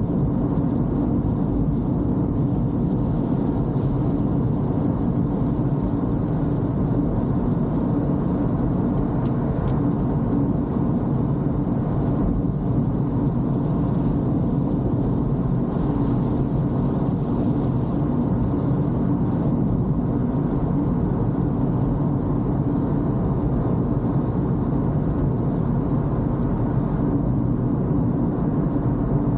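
Toyota Corolla driving on wet roads: a steady, even rumble of tyre, road and engine noise.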